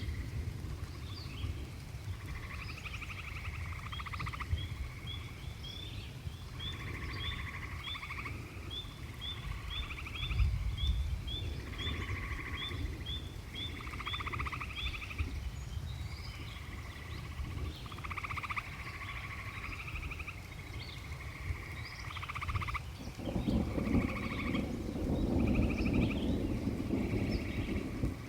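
A chorus of frogs calling in short pulsed trills, over a steady low rumble. Through the first half a bird repeats a quick high chirp about three times a second. About three quarters of the way through, a fuller, louder rushing noise swells up under the calls.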